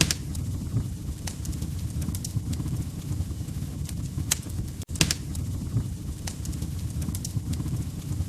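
Wood fire crackling in a fireplace: a steady low roar of flames with scattered sharp pops from the burning logs, broken by a momentary drop-out to silence about halfway through.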